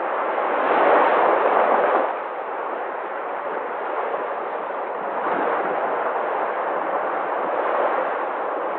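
Sea waves washing in, a continuous rushing noise. One wave surges loudest about a second in, then the wash carries on steadily with smaller swells.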